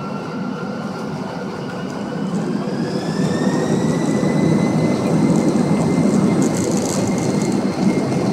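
Boeing 767-300ER's jet engines heard from inside the cabin, spooling up to takeoff thrust: a whine rises over the first few seconds and then holds steady above a loud rumble that grows louder.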